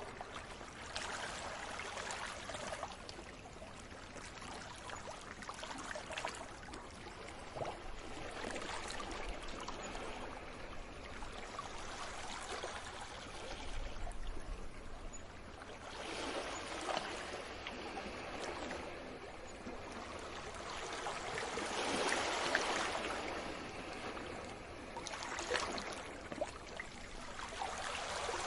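Sea waves washing onto a shore, the rushing noise swelling and ebbing every few seconds, with the strongest surge a little past the middle.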